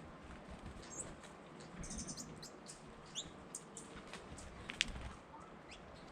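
Birds giving short, high chirps and call notes at irregular intervals, with one sharper, louder note nearly five seconds in.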